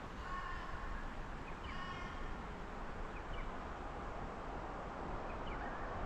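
A bird calling twice, two short calls about a second and a half apart, with a few faint chirps, over a steady outdoor background hiss.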